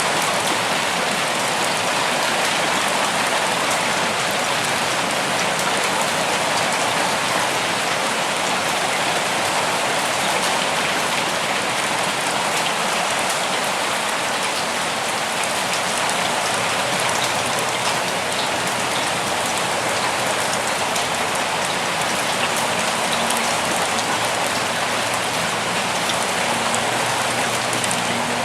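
Steady rainfall, an even hiss of rain with many individual drops pattering on surfaces.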